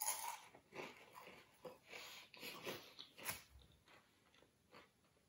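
A person bites into a crispy roast potato roasted in vegetable oil and chews it, its crust crunching in irregular crackles. The crunching dies down after about three and a half seconds.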